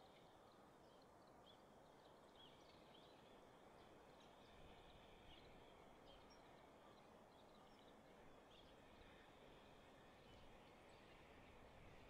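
Near silence: faint outdoor background hiss with scattered short, high, faint bird chirps.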